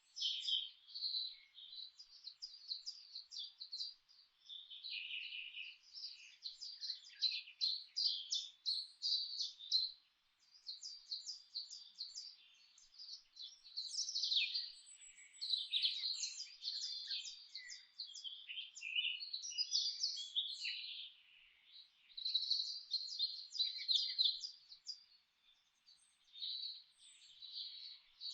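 Several songbirds singing together: rapid, overlapping high chirps and trills, with only brief pauses.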